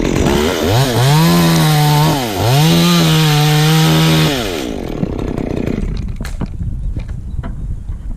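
Two-stroke chainsaw revved up to full throttle twice in quick succession, each run held a second or two with a brief dip between, then dropping back off throttle. This is typical of cutting off small branch stubs.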